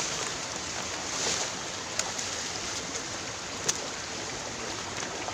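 Steady rush of flowing river water, with two short sharp clicks about two seconds and about three and a half seconds in.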